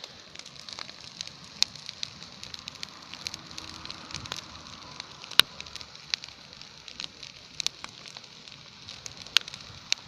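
Bonfire crackling, with frequent irregular sharp pops over a steady hiss of burning; the loudest pops come about halfway through and near the end.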